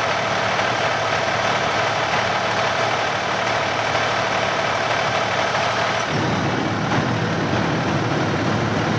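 Fire apparatus diesel engine running steadily at idle, a constant mechanical drone with a few held tones; its low rumble grows heavier about six seconds in.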